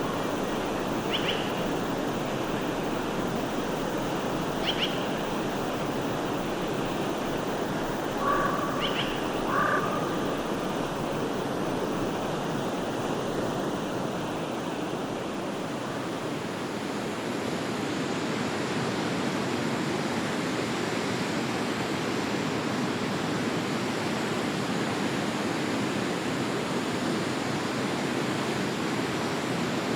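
Stream water flowing steadily, with a few short bird calls in the first ten seconds.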